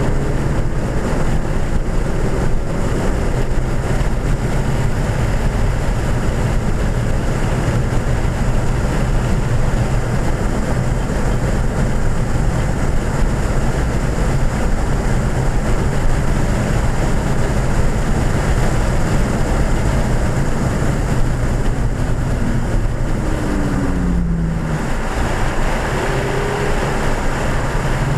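Inside the cabin of a 2014 Ford Fiesta ST at track speed: the turbocharged 1.6-litre four-cylinder engine pulls at steady revs under heavy wind and road noise. About 23 seconds in, the engine note falls away as the car slows for a corner.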